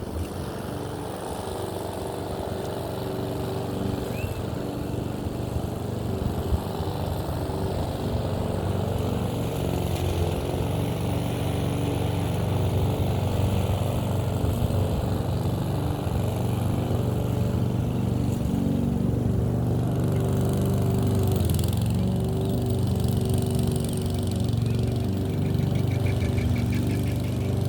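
Lawn mower engine running steadily, growing louder over the first several seconds.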